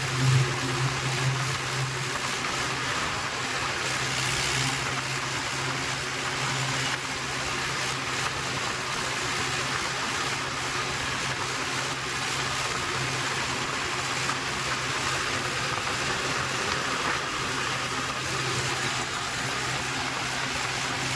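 Tractor engine running steadily under a constant hiss, with a low hum that holds a fixed pitch.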